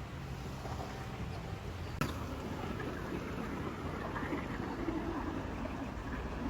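Low, steady rumble of car engines, with one sharp click about two seconds in.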